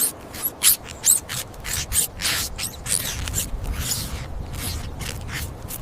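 Rapid rasping, rubbing strokes, about three or four a second, with a low rumble coming in under them about halfway through.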